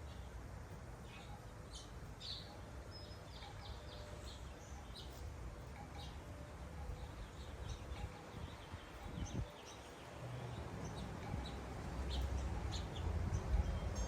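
Small wild birds chirping on and off: many short, high chirps in loose clusters, over a steady low rumble that swells near the end.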